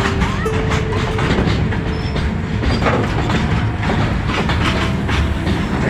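A train passing close by: a steady, loud rumble of rolling wagons, with the wheels clattering over the rail joints.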